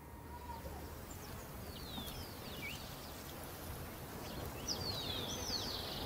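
Small birds calling outdoors: short, high chirps that slide downward in pitch, repeated in small groups from about two seconds in, over a steady outdoor background noise.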